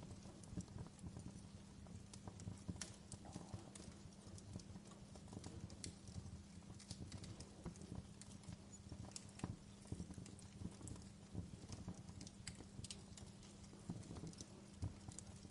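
Wood fire crackling: irregular small pops and snaps over a low steady rumble.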